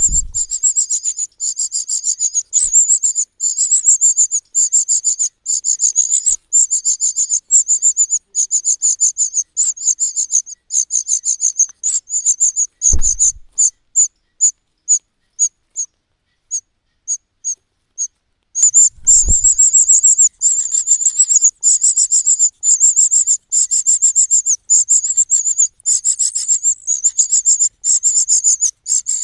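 Cuckoo chick begging: a rapid, very high-pitched stream of calls that thins to sparse single notes about halfway through, then picks up again. Two dull low thumps are heard, one as the calling thins and one as it resumes.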